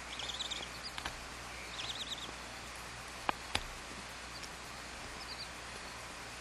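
High, quavering bird twittering in two short bursts of about half a second each, with fainter chirps later. Two sharp clicks come in the middle, over a steady hiss.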